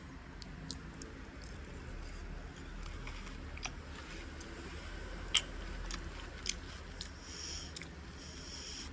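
A person chewing and biting food at close range, with scattered small clicks and taps, the loudest a little over halfway through.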